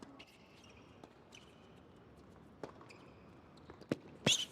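Tennis ball knocking on the court a few times, with faint shoe squeaks early on; the loudest, sharpest hit comes near the end.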